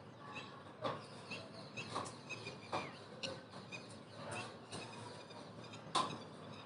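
Faint background bird chirps, short and scattered, with a few light clicks, the sharpest about six seconds in.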